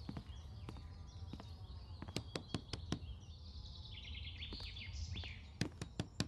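Birds chirping and trilling, with scattered sharp clicks and a steady low rumble underneath.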